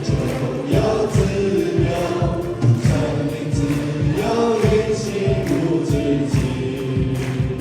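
Worship band with a group of singers performing a gospel-style praise song, with a steady beat.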